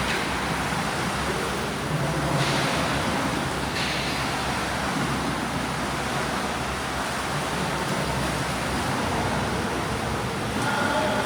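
Steady wash of swimming-pool noise from swimmers churning the water during breaststroke drills, with brief louder splashes about two and a half and four seconds in.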